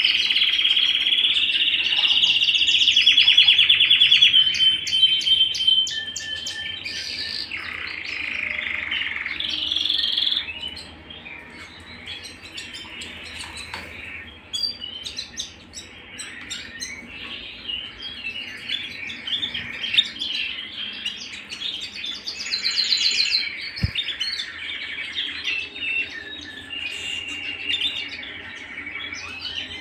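Domestic canary singing: long rapid rolling trills for the first ten seconds or so, then quieter, more varied warbling phrases. A single sharp click sounds near the end.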